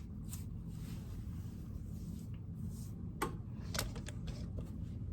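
Low steady room hum with a few faint clicks, two of them a little past three seconds in.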